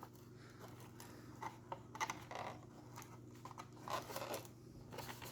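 Light handling of a cardboard box of model railroad accessories: faint scraping, rustling and a few soft clicks as the box is opened and its contents moved.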